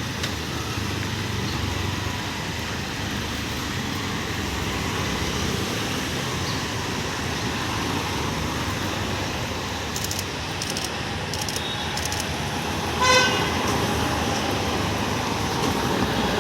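Steady street traffic noise, with a vehicle horn giving one short honk about 13 seconds in.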